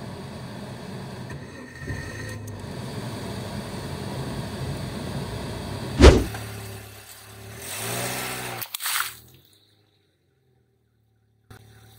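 Car engine running at low speed, then a balloon bursting with one sharp, loud bang under the car's tyre about six seconds in.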